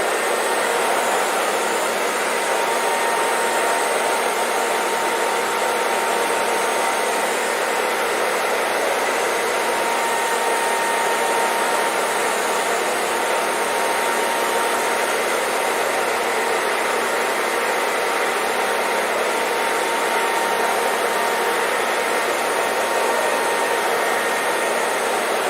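Hair dryer running steadily: an even, unbroken rushing noise with a faint steady whine.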